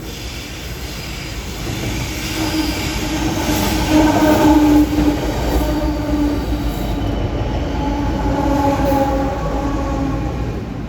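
Diesel locomotives of a grain train passing, a steady engine drone that builds to its loudest about four seconds in and eases off slowly.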